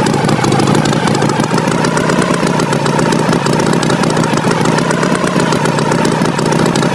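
Tractor engine running steadily at an even speed, with a fast regular chug and a faint pitch that wavers slightly.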